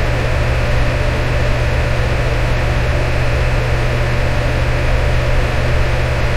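Electric fan running steadily: an even whoosh of moving air over a strong low motor hum, with a faint steady tone above it.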